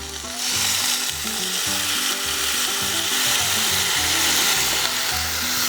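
Skin-on chicken sizzling in a hot pan over a campfire, a steady loud hiss that swells just after the start as the chicken goes into its steaming stage.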